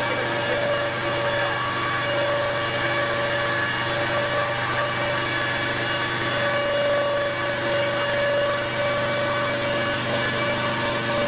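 CNC stone router (quartz-stone machining centre) running steadily, a continuous machine whine with several held tones over a noisy hiss.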